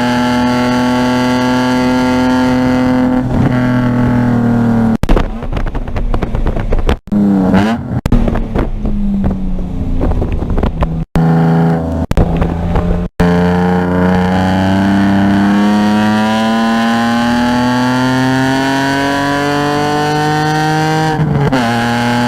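Car engine heard from on board at a track: it holds steady revs, then goes through a choppy stretch of lifting, downshifting and blipping with heavy noise and brief cut-outs. It then pulls up steadily in one gear, and an upshift drops the revs near the end.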